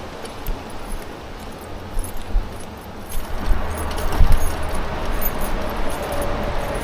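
Highway traffic rushing past, growing louder about three seconds in, with light rattling and clinking from the e-bike riding over a bumpy path.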